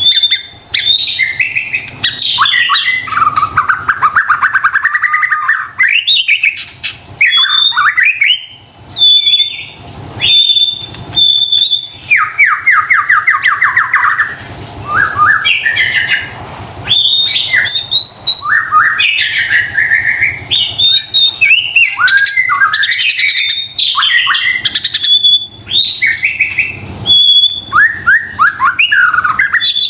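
White-rumped shama (murai batu) singing loudly and continuously: a varied run of whistled notes, slurred phrases and harsh calls, with a fast trill about halfway through.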